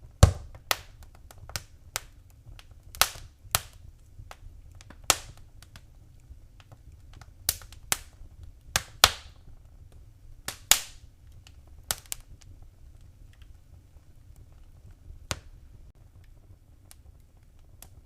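Wood fire crackling: sharp, irregular pops and snaps over a faint low rumble. The loudest pop comes just after the start, and the pops come thick for the first twelve seconds or so, then thin out to an occasional snap.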